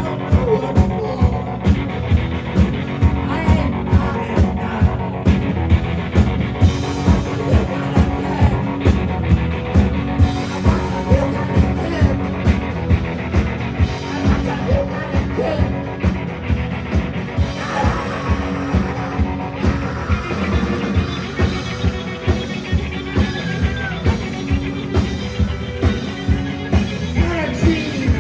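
A live rock band playing loud, with a steady drum beat of about two beats a second under guitar.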